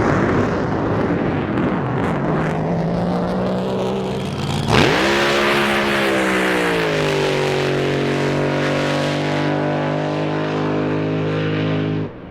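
Drag boat engine running loud, with a sudden surge and sharp rise in pitch about five seconds in. It then holds a high steady note and cuts off abruptly near the end.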